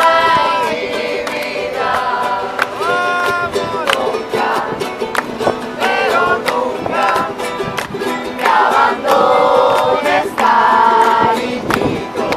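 Live music: voices singing held notes to a strummed string instrument, with sharp strokes of the strumming running throughout.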